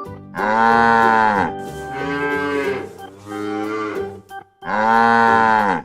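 Cow mooing three times, each a long drawn-out call, with the first and last louder than the middle one.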